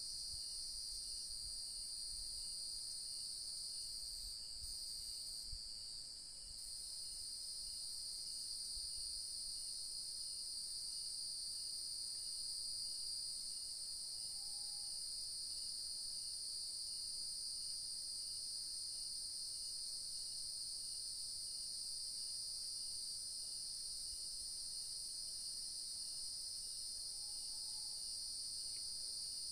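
Evening chorus of crickets, a continuous high-pitched trilling with a faint steady pulse beneath it. A distant short call is heard twice, about halfway through and near the end.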